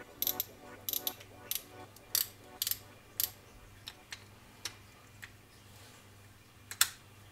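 Daiwa Saltist 30H multiplier fishing reel clicking as its handle and controls are worked by hand: a quick run of sharp clicks for the first three seconds or so, then a few spaced ones, with the loudest click near the end.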